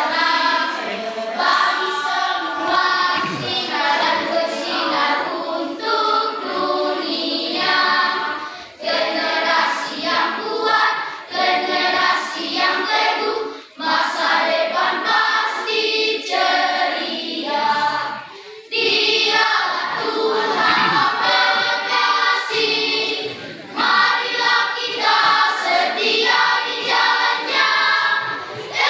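A Sunday-school choir singing a song in three-part harmony, phrase after phrase, with brief breaks between phrases.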